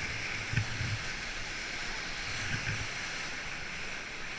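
Steady rush of river rapids, with a few faint low knocks.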